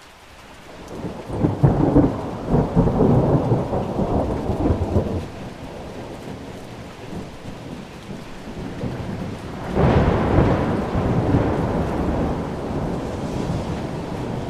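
Thunder over steady rain: a rolling peal builds in the first couple of seconds and dies away about five seconds in, then a second peal with a sharper crack breaks about ten seconds in and rumbles off slowly.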